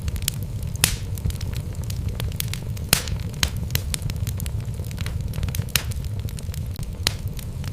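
Wood fire burning in a fireplace: logs crackling and popping at irregular intervals, with a few sharper pops, over a steady low rumble of the flames.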